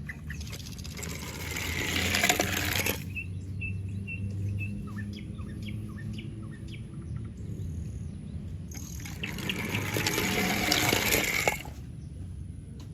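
Two bursts of crackly rustling noise, each lasting about two to three seconds; the second stops abruptly. Faint bird chirps come between them over a low steady hum.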